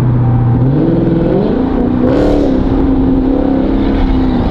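Car engine accelerating hard: its note climbs steeply for about a second and a half, then holds steady at higher revs.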